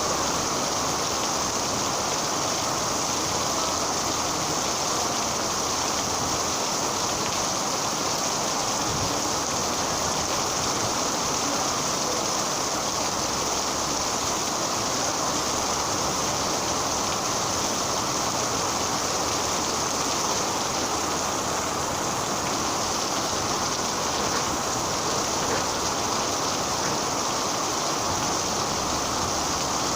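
Rain falling steadily, an even hiss of water that does not change in strength.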